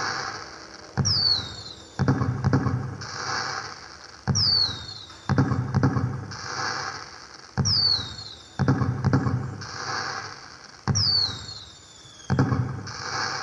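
Fireworks sound effect played by a pixel cracker LED light's sound unit. It loops about every three seconds: a bang, a falling whistle, another bang, then crackling that fades.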